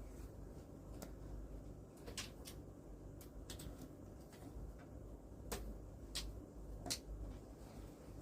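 Faint handling noise: scattered light clicks and rustles as clothes and packing items are moved about, over a low room hum.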